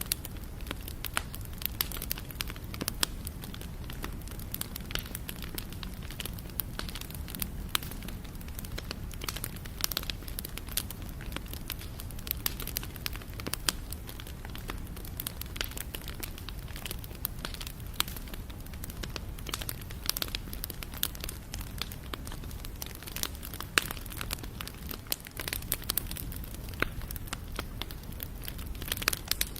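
Campfire burning, with frequent sharp, irregular crackles and pops of burning wood over a steady low rumble of flame.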